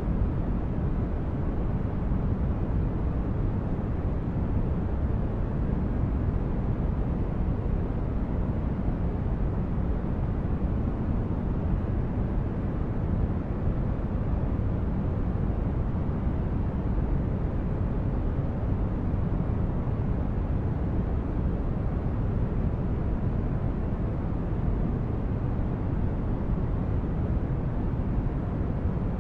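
Steady synthetic noise for sleep and relaxation, deep and dull rather than hissy: strongest in the bass and fading off toward the treble, with no change in level or character.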